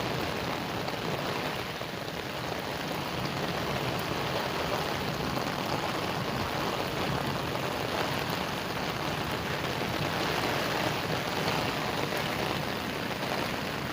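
Heavy rain falling steadily, a continuous hiss of rain with faint scattered drop ticks.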